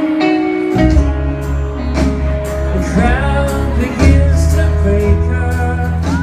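Live indie-folk band playing, with acoustic guitar strumming and singing; a deep bass line comes in about a second in.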